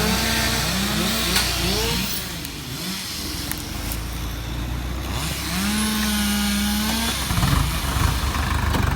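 Vehicle engine revving: its pitch rises in several quick climbs, then it climbs again and holds a steady high note. Near the end it gives way to a louder, rougher low rumble.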